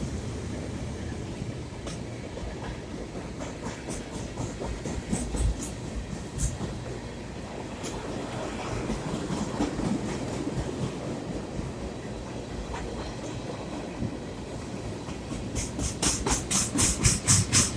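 Freight train cars rolling past with a steady low rumble, and a few scattered clacks of wheels on the rails. Near the end a fast, regular clickety-clack of wheels crossing rail joints grows louder.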